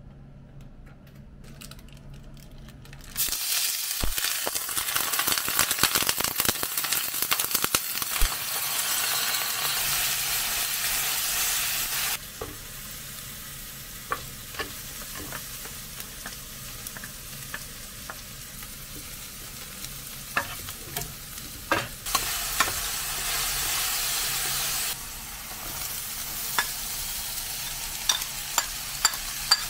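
Food sizzling and frying in a hot pan, starting about three seconds in and stopping and restarting abruptly several times. Between the loud stretches, a utensil stirring the food makes sharp taps and scrapes against the pan.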